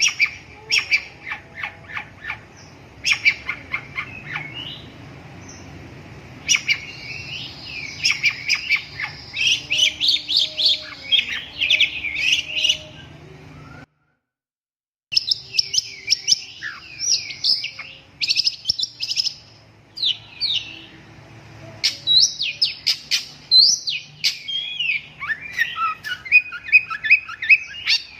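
Long-tailed shrike (cendet) singing: rapid bursts of short, scratchy chattering notes and quick whistled sweeps, one after another. The sound drops out completely for about a second midway.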